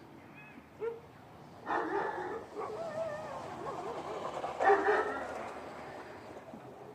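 Canine calls: a short yelp, then two loud barks a few seconds apart, with a wavering, whining yelp between them that fades away afterward.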